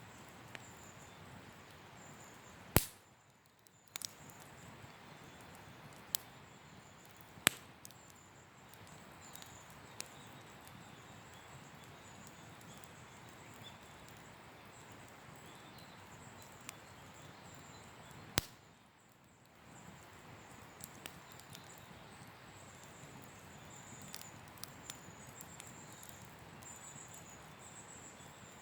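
Wood campfire burning with a steady low hiss and scattered sharp pops, the loudest about three seconds in, at about seven and a half seconds and at about eighteen seconds. A faint high chirping runs behind it.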